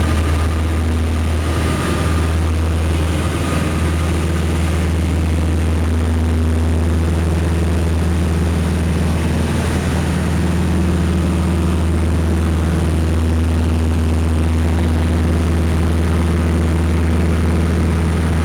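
Piper Seneca's twin piston engines and propellers running in a steady drone, heard from on board.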